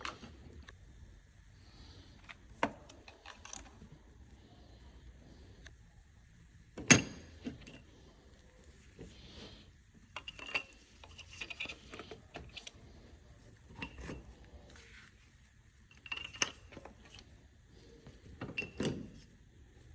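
Scattered metallic clinks and knocks of tools and metal parts being handled, with the sharpest knock about seven seconds in.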